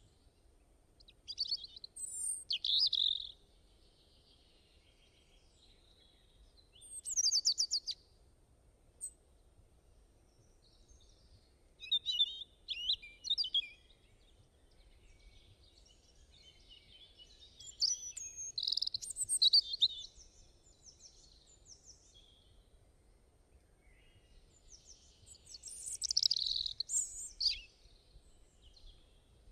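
Songbirds singing in short bursts of quick, high chirps and trills, five phrases spread a few seconds apart over a faint steady background.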